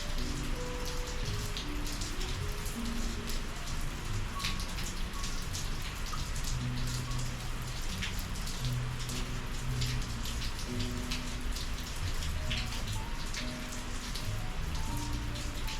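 Steady rain falling, many individual drops ticking on a surface. A soft melody of low held notes sounds faintly underneath.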